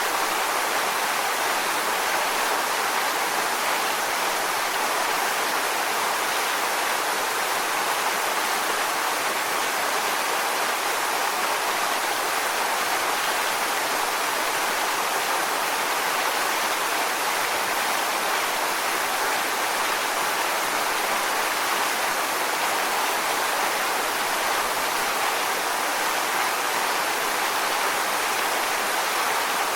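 Waterfall: water falling and splashing onto rocks in a steady, even rush with no change in level.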